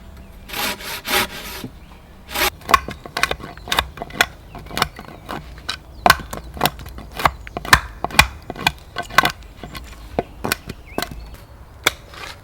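Work on dead wood with hand tools: a few rasping saw-like strokes, then a long run of sharp wooden knocks, about two a second, as the wood is struck.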